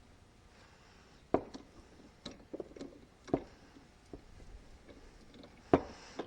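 Hand tools clicking and knocking while a rod is threaded: four sharp knocks spread over a few seconds, with lighter clicks between.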